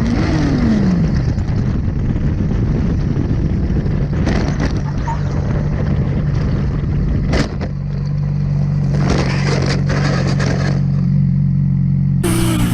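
A vehicle engine running steadily under road and wind noise, its pitch dropping in the first second as it eases off. A couple of brief knocks come about four and seven seconds in.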